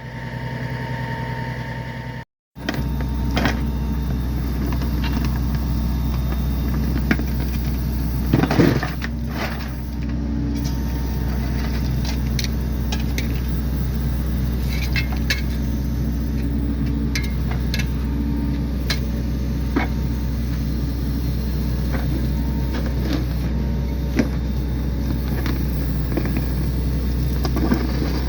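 An engine running steadily at a constant speed, with scattered knocks and clanks over it.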